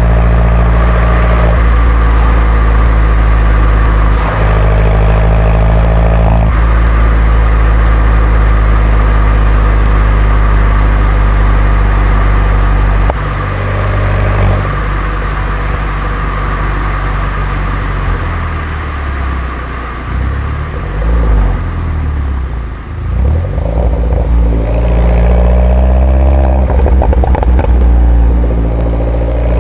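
Mini Cooper John Cooper Works 1.6-litre turbocharged four-cylinder engine and stock exhaust, driving at steady revs for about the first thirteen seconds. Then it comes off the throttle and the revs rise and fall unevenly, before climbing again under acceleration near the end.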